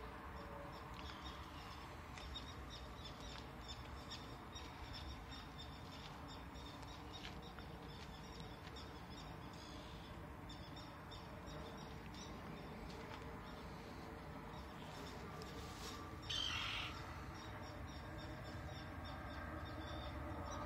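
Faint outdoor ambience with birds calling and chirping, and a brief louder noise about three-quarters of the way through.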